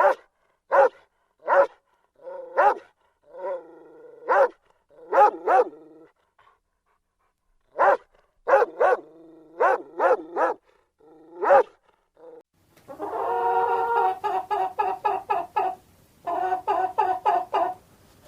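Dog barking: single barks with short pauses between them, then a faster string of barks in the last five seconds.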